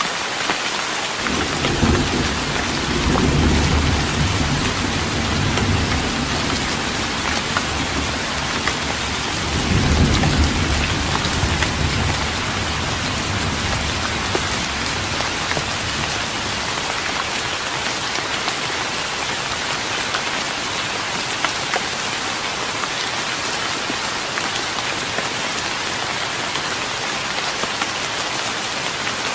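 Steady rain falling on a wooden deck, with two low rolls of thunder: a long one about two seconds in and a shorter one about ten seconds in.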